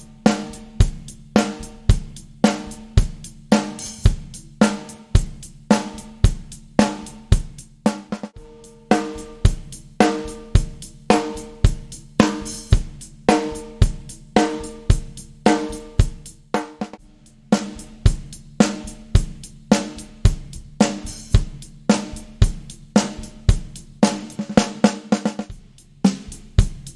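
1967 Ludwig Supraphonic metal-shell snare drum with a Controlled Sound coated head, undampened, struck in the center over and over at an even pace of about two hits a second, each hit ringing briefly with snare-wire buzz.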